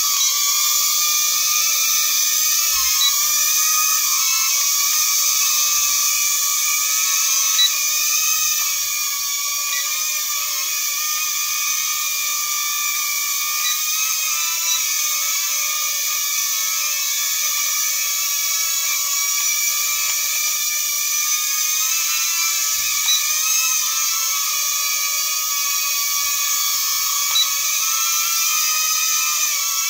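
Toy airplane's small electric propeller motor running with a steady high whine, its pitch wavering slightly now and then.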